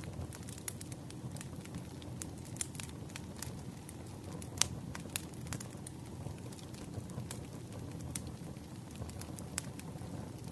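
Campfire crackling: a steady low rumble of burning wood with frequent small snaps and pops, and one louder pop about halfway through.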